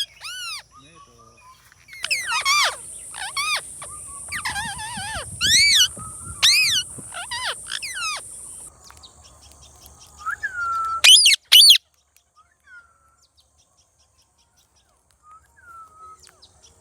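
Indian ringneck parakeet giving a run of loud, short, harsh screeching calls, each rising and falling in pitch. Two more come about eleven seconds in, and after them only a few faint chirps.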